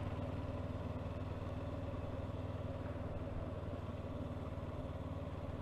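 Honda CB500X's parallel-twin engine running steadily at low revs, with an even, fast pulse.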